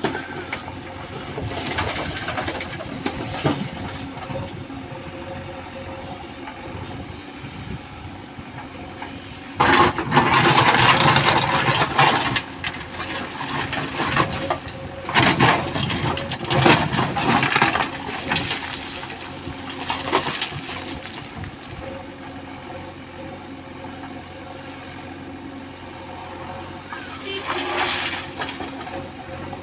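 Diesel engine of heavy loading machinery running steadily. Several loud, noisy stretches rise over it: a long one about a third of the way in, a cluster a few seconds later and a shorter one near the end.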